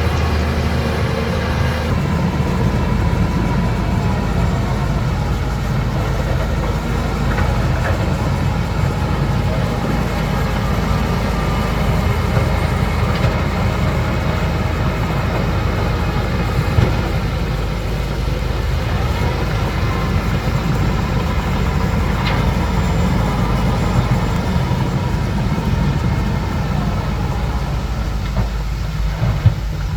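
Crawler bulldozer working, its diesel engine running with a steady low rumble and the clatter of its steel tracks; a sharp clank about halfway through and another near the end.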